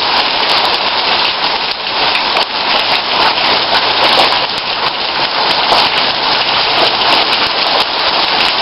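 Heavy rain falling steadily in a dense hiss, with many close drops ticking on nearby surfaces.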